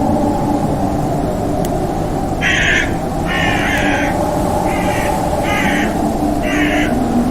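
Crow cawing, about five harsh caws at irregular intervals starting about two and a half seconds in, over a steady low droning ambience.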